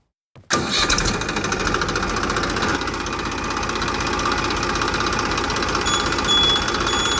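A small engine running steadily, its loud, rattling drone cutting in abruptly about half a second in.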